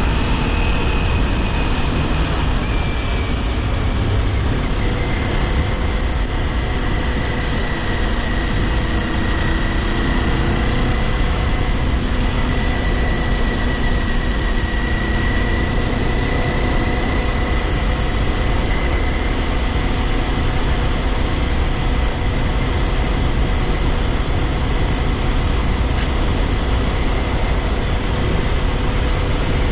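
Kawasaki Ninja 400's parallel-twin engine running at a steady cruise, its pitch holding nearly level, under heavy wind and road noise on the helmet-mounted camera microphone.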